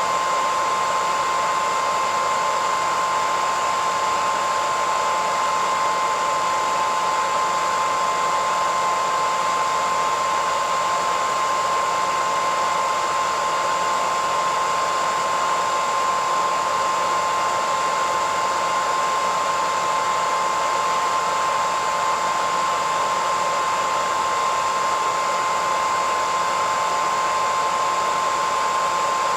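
Hair dryer running steadily: an even rush of blown air with a constant high whine from the motor.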